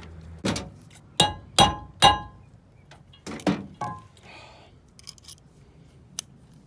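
Hammer blows on a nail used as a punch to drive out the pin of a trailer hitch's spring bar locking device: about seven sharp metal-on-metal strikes in quick groups, the loudest ringing briefly after each hit.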